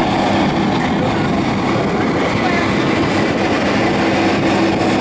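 Sea Harrier jet engine running with a steady, loud rumble.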